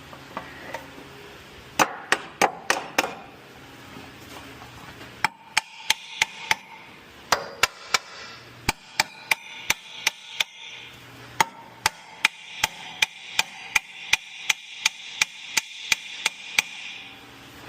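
Hammer blows on the steel front-suspension parts of a 2007 Honda CR-V, striking to knock the lower control arm joint loose, each blow ringing metallically. A quick group of about five strikes, a pause, then a long run of steady strikes about two a second.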